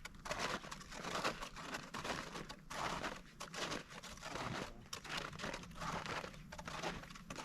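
Crunching footsteps in snow at a steady walking pace, about one and a half to two steps a second.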